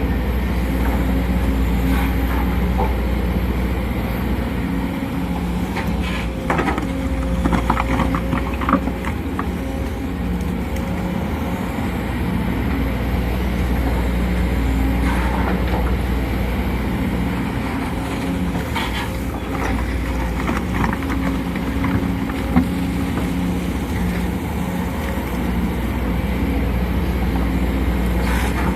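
Sumitomo SH210 hydraulic excavator's diesel engine running steadily, with a faint steady whine over the engine note. There are clanks and rattles from the machine about six to nine seconds in and again around nineteen seconds, and a single sharp knock a little past twenty-two seconds.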